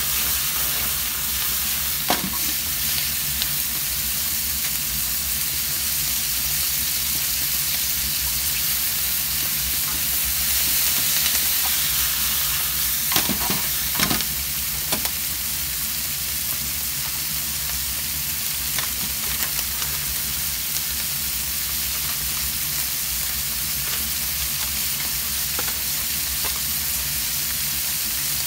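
Pieces of offal and vegetables sizzling steadily as they stir-fry in a frying pan over a gas flame, with a few sharp knocks of the pan or utensil about two seconds in and again around thirteen to fifteen seconds in.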